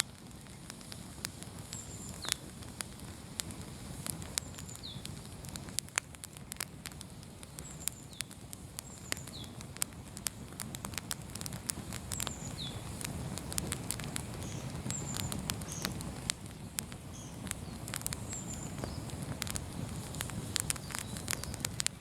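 Outdoor bonfire crackling, with frequent sharp pops and snaps over a steady low rush of burning.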